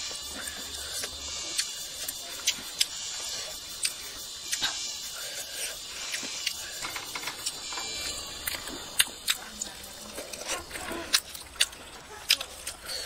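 Close-up mouth sounds of a person eating cooked chicken heads: chewing and lip-smacking, with many sharp wet clicks and crunches throughout.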